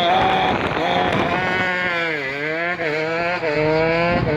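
A car's engine working hard on an autocross course: the revs fall as the driver lifts or brakes about two seconds in, climb again, dip briefly, then rise and hold as it accelerates.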